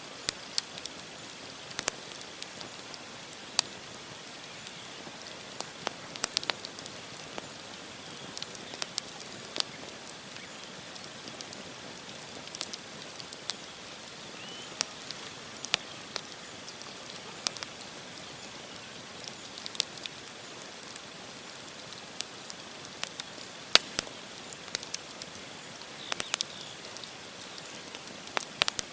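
Wood campfire burning: logs crackling with irregular sharp pops and snaps over a steady soft hiss.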